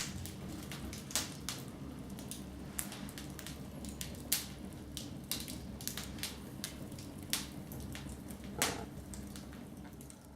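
Wood fire crackling in a fireplace: irregular sharp pops and snaps over a low, steady rumble, with a louder pop about four seconds in and another near the end.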